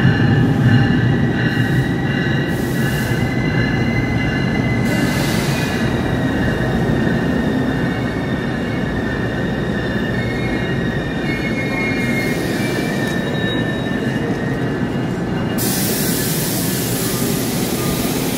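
NJ Transit electric train rolling along the platform with a steady rumble and high squealing wheel tones. Short bursts of hiss come and go, and a longer hiss starts about three seconds before the end.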